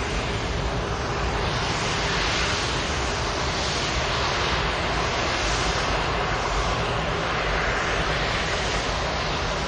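Jet aircraft engine noise from an EA-37B Compass Call's turbofans: a steady, loud whoosh with a swirling, phasing quality that rises and falls every second or two as the aircraft moves.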